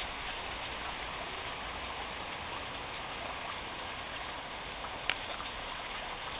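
Heavy rain falling steadily, an even hiss, with one sharp tick about five seconds in.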